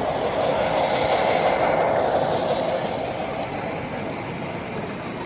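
Model train running along a layout, growing louder and then fading as it passes, over the steady background noise of an exhibition hall.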